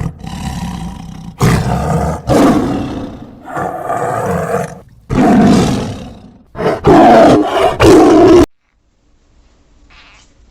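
A large animal roaring loudly, several roars in quick succession, which stop abruptly about eight and a half seconds in.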